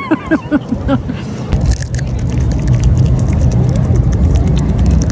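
Wind rumbling on the microphone, mixed with the clicks and rustle of the phone being handled. It follows a brief run of quick, falling vocal sounds in the first second.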